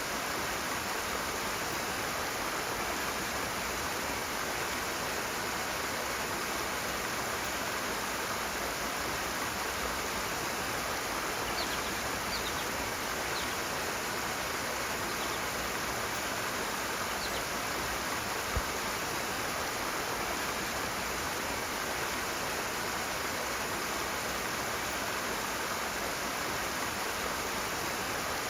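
Rushing water: a stream running hard with a steady, unbroken rush. A few faint high chirps come through midway, and there is one brief low thump near the two-thirds mark.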